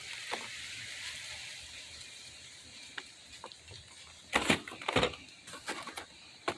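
Boxed toy trucks being handled: a soft rustle of packaging, a few light clicks, then a run of louder knocks and scrapes from about four seconds in as the boxes are moved and set down.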